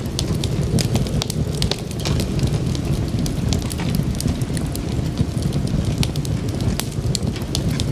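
Wood fire burning, with a steady low rumble of flames and frequent sharp crackles and pops.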